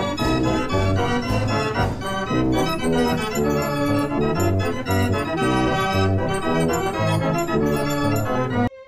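Organ music with a pulsing low bass line, cutting off suddenly near the end.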